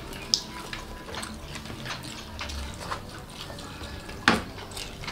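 Close-miked eating sounds: several people chewing fried chicken and smacking their lips, with scattered small wet mouth clicks. A sharper click comes just after the start, and the loudest, a single sharp click, about four seconds in.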